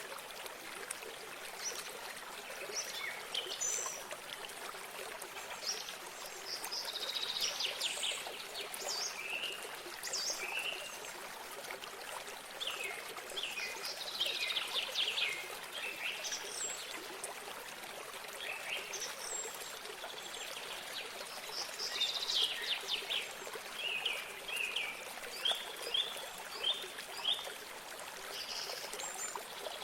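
Small stream or spring running steadily, with songbirds singing over it in repeated bursts of quick trilled phrases and, near the end, a short run of separate notes.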